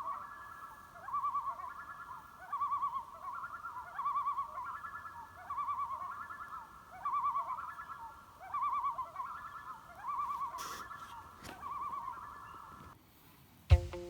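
Animal calls: short trilled, wavering calls repeating about every one and a half seconds, overlapping one another. Near the end they stop and there is one sharp knock.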